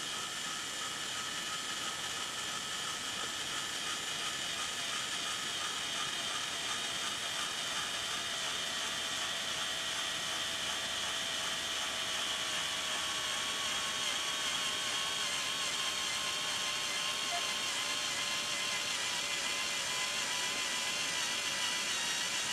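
Electric drill running continuously under load as it bores into metal, a steady whine that wavers slightly and sags a little in pitch.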